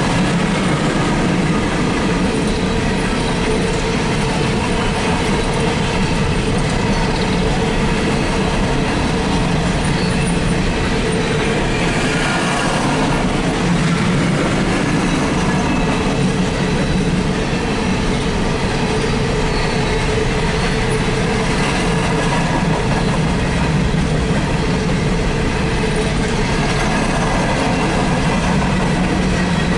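Empty steel coal hopper cars of a freight train rolling past without a break, their wheels running on the rails with a loud, steady rumble and rattle and a steady tone over it.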